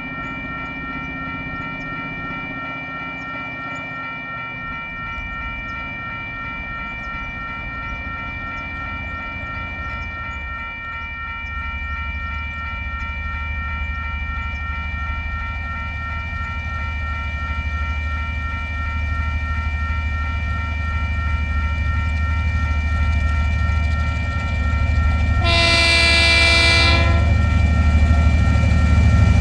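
A TasRail DQ-class diesel-electric locomotive approaches, its engine rumble growing louder from about ten seconds in. Near the end it gives one long horn blast of about a second and a half. Steady high tones sound throughout, as from the level crossing's warning alarm.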